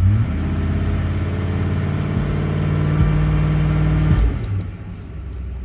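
2004 Ford Expedition's 4.6-litre V8 held at wide-open throttle against the brakes with the automatic transmission in gear. This is a torque-converter stall test, and the engine runs steadily at its stall speed of about 2,000 rpm, at the bottom of spec, a sign that the converter and clutches are holding. About four seconds in, the throttle is let off and the engine drops back.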